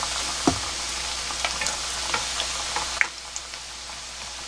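Squid rings deep-frying in shallow oil: a steady sizzle with scattered pops and crackles, easing a little after about three seconds.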